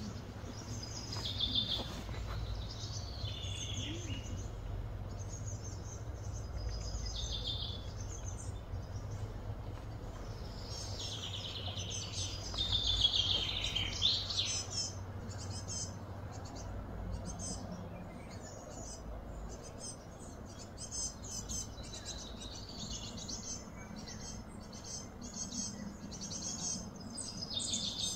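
Birds chirping and calling over and over, busiest about halfway through, over a steady low hum.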